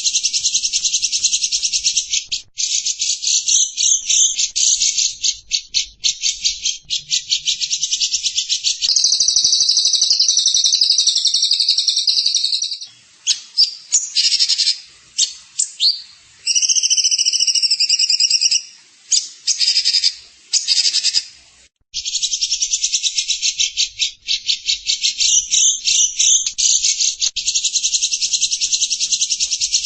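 Caged songbird singing a rapid, high-pitched, chattering trill. About nine seconds in the song steadies for a few seconds, then breaks into short separate phrases with brief pauses before the fast trill resumes.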